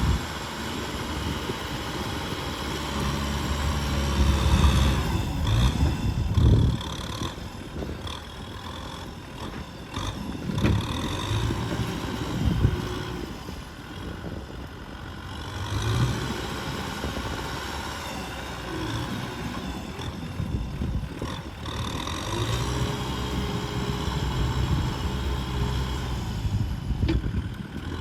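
Tractor engine working under load in mud, its pitch and loudness rising and falling repeatedly as it pulls.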